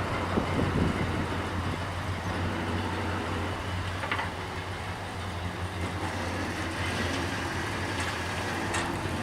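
1982 Ford F350 dump truck's engine running steadily, with a few light clicks partway through and near the end.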